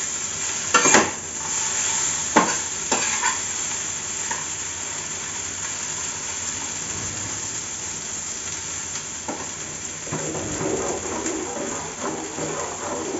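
Vegetable pieces frying in oil in a kadai, with a steady sizzle, and a metal spatula clacking and scraping against the pan a few times in the first three seconds as the pieces are turned; the fry is nearly done.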